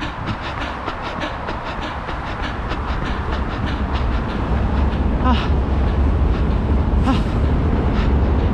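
Running footsteps at a steady cadence of about three steps a second. From about halfway through, a loud low rumble builds up under them, with a few short breathy voiced sounds.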